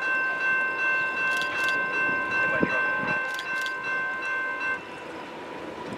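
A train running past while a railroad bell rings, its struck tones hanging on, until the ringing stops about five seconds in.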